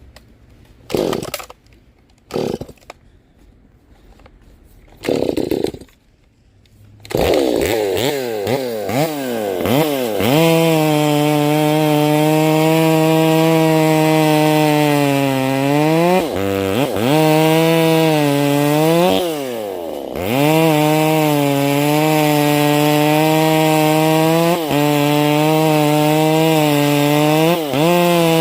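Ported, muffler-modded Stihl 025/MS 250 two-stroke chainsaw started with three short pulls, catching on the third about seven seconds in and blipped a few times. It then holds a steady full-throttle pitch as it rips lengthwise through white oak, letting off briefly twice midway before cutting on.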